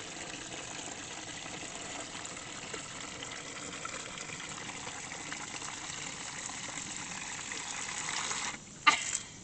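Water running from a rain-barrel spigot into a chick waterer, cutting off suddenly near the end, followed by a single short knock.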